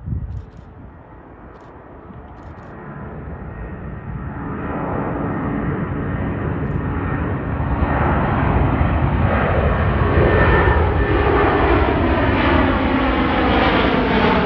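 Airbus A330-300 airliner's jet engines during its departure, growing steadily louder over the first eight seconds as the aircraft nears, then holding loud. A brief knock comes right at the start.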